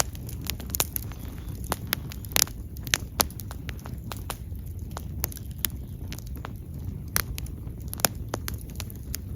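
Wood fire burning: irregular sharp crackles and pops, a few a second, over a steady low rush.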